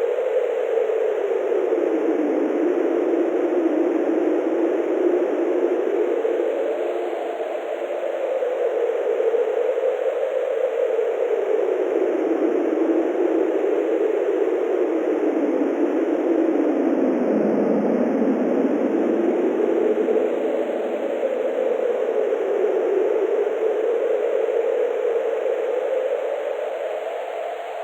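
Wind sound effect: a steady rushing noise whose pitch slowly rises and falls over several seconds, like wind howling.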